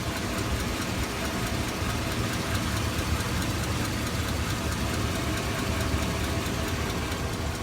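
A 2002 Chevy Avalanche's 5.3-litre V8 idling steadily with a constant ticking. The owner takes the tick for a cracked exhaust manifold, though he also wonders about worn valve gear.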